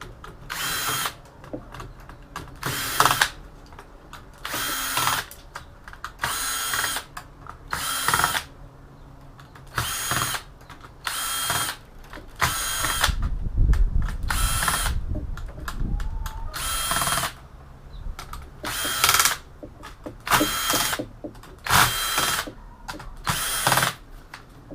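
Electric screwdriver running in short bursts of about a second, over and over every second or two, as it backs out one screw after another. Each burst carries a steady motor whine, and a low rumble comes in about halfway through.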